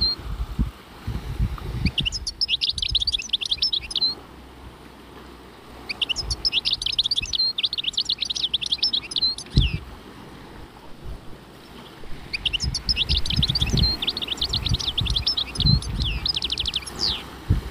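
A songbird sings three phrases a few seconds apart, each a fast run of high chirping notes, the last ending in a quick trill. Intermittent low rumbling lies underneath.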